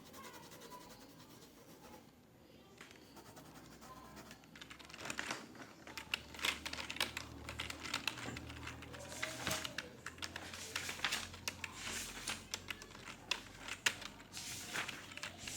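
Computer keyboard typing in a small office: a fast, irregular run of keystrokes that grows busier and louder about five seconds in, over a low hum.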